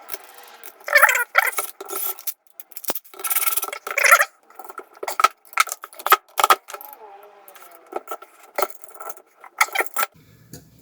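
Irregular metal clinks and short scraping rubs from steel parts and hand tools being handled while a slide is bolted down.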